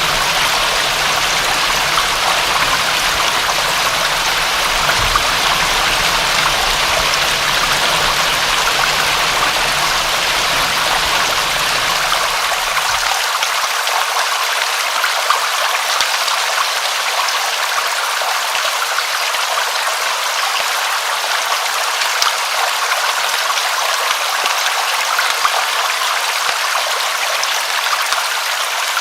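Steady rain, an even hiss of falling water with faint drop ticks through it. A low rumble underneath cuts off abruptly a little under halfway through.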